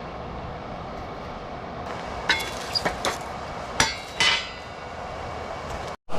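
A metal pan and cooking utensils clanking: several sharp clinks with a short metallic ring, starting about two seconds in and spread over a couple of seconds, above a steady background hiss.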